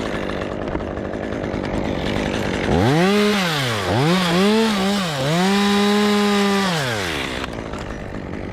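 Stihl two-stroke chainsaw idling, then revved up about three seconds in: the pitch rises and dips twice, climbs and holds at full throttle for about a second and a half, then drops back to idle.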